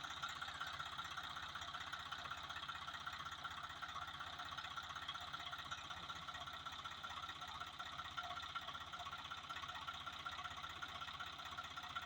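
Swaraj 744FE tractor's three-cylinder diesel engine running steadily with an even, rapid rhythmic beat.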